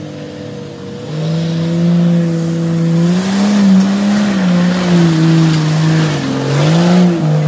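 Off-road 4x4's engine revving under load as it climbs a muddy track, its pitch rising and falling with the throttle. It gets louder about a second in as the vehicle comes up and passes close by.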